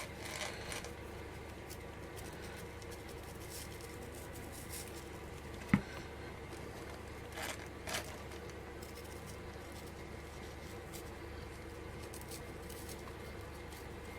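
Faint crafting handling sounds: faux leaf stems being pushed into styrofoam and the artificial leaves rustling, with one sharp tap about six seconds in, over a steady low hum.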